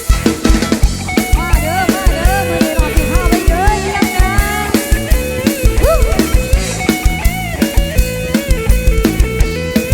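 Live band playing an instrumental passage: a drum kit keeps a fast, steady beat with bass, while a lead instrument plays a melody full of bent notes.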